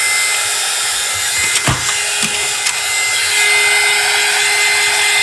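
Small power tool running steadily with a high whine, working wood, with a knock about a second and a half in and a couple of light ticks after it.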